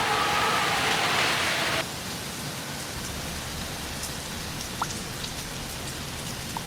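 Heavy rain falling as a steady hiss. It drops suddenly to a quieter rain sound about two seconds in, with a few faint ticks of drops afterwards.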